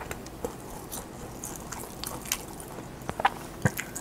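A person chewing a bite of German-style handmade ham close to the microphone: scattered short, wet mouth clicks, with a few louder ones a little after three seconds in.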